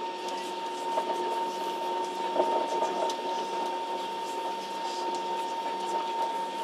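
Steady drone of an airliner cabin waiting before take-off, a hum with a steady high whine running through it. Faint passenger voices come and go about two to three seconds in.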